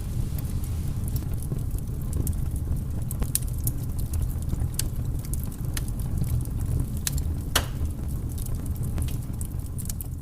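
Wood fire burning in a fireplace: irregular crackles and pops over a steady low rumble, with one louder pop about seven and a half seconds in. It starts to fade out near the end.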